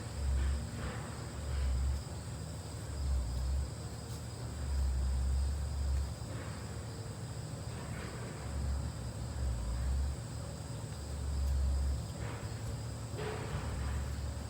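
LG ductless mini-split air conditioner running, with a steady low hum and steady high-pitched tones. Irregular low rumbles, the loudest thing heard, come and go every second or two.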